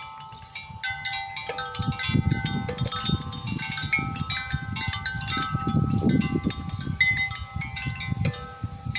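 Wind chimes ringing irregularly, many struck tones overlapping and hanging on, over an uneven low rumble.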